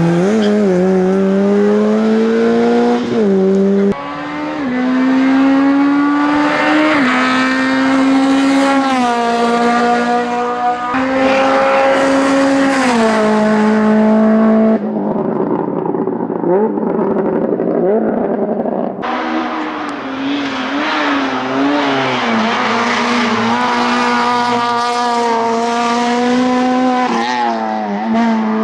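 Hillclimb race car engines at high revs, their pitch climbing and then stepping down with each gear change as the cars drive past. The sound jumps abruptly several times, from one car's pass to the next.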